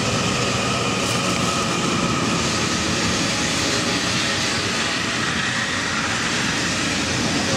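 JR East E001 "Train Suite Shiki-shima" cruise train on an empty test run, rolling steadily past along the platform: a continuous running and wheel-on-rail noise that holds at one level throughout.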